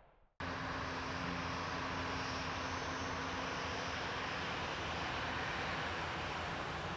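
Boeing 747 jet engines running, a steady roar with a low steady hum through it, starting abruptly about half a second in.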